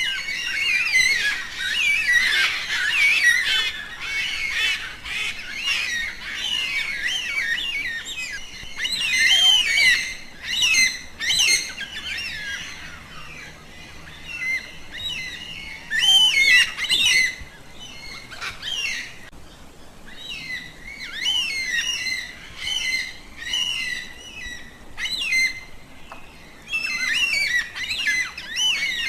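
A flock of yellow-tailed black cockatoos calling, many short squawking calls overlapping in bursts, with brief lulls between them.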